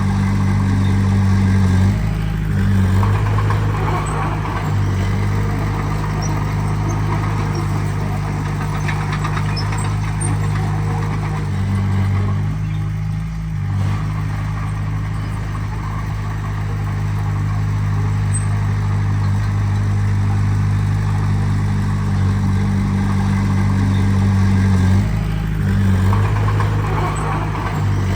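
Heavy diesel engine of earthmoving machinery running steadily, its engine speed shifting up and down a few times.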